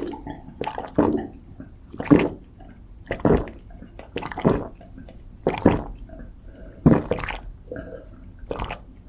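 Close-miked wet mouth eating sounds: chewing and smacking of food in bursts roughly once a second.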